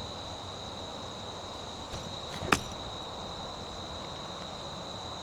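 A golf wedge strikes the ball once, a single sharp click about two and a half seconds in. Insects chirr in a steady high drone behind it.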